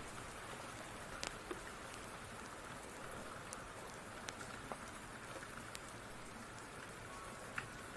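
Steady rain hiss mixed with a wood fire's scattered sharp crackles and pops, the sharpest near the end.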